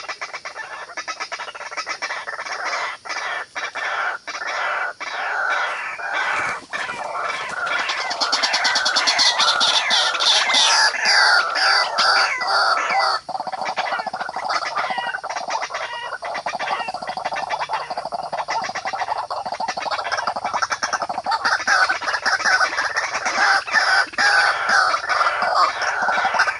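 A flock of many birds calling at once: a dense, continuous din of overlapping short calls that grows a little louder about a third of the way in.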